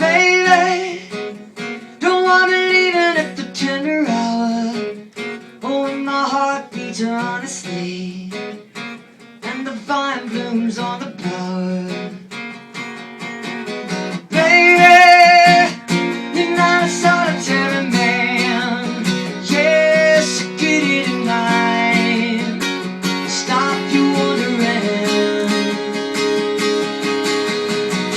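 Live song on a strummed acoustic guitar, with a woman's singing voice over it at times.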